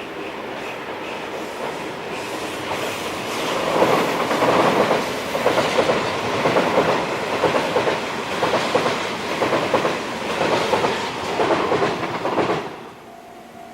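A train passing close by, its wheels clattering over the rail joints in a rhythm that pulses roughly once a second as the cars go by. The sound builds over the first few seconds and cuts off suddenly near the end.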